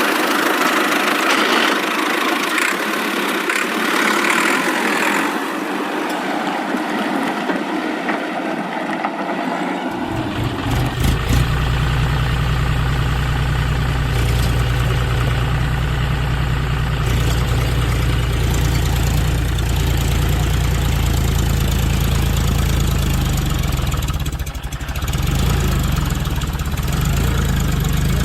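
Engine running steadily. About ten seconds in, a deep, steady low rumble sets in and continues, briefly dipping near the end.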